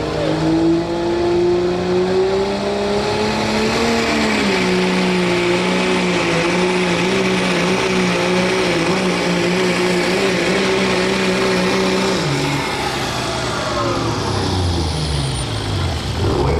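Diesel pickup engine of a 2.6-class pulling truck under full load, revs climbing over the first few seconds and then holding steady. About twelve seconds in the revs drop, and the engine winds down.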